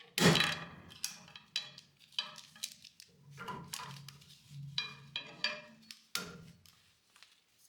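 Ratchet strap being let down, with a string of sharp clicks and metallic clanks from the ratchet and the hardware as the load comes off.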